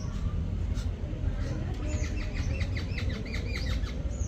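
A bird calling: a quick run of short, downward-slurred high notes, about five a second, starting about a second and a half in and lasting about two seconds, with a few single higher slurred notes. A steady low rumble runs underneath.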